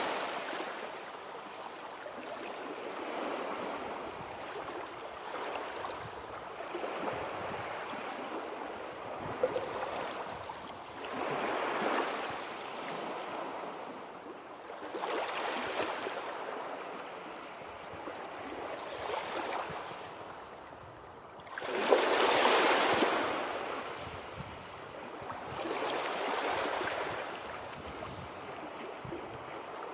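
Sea waves washing onto a shore, one swell of surf every few seconds over a steady wash, the largest about two-thirds of the way through.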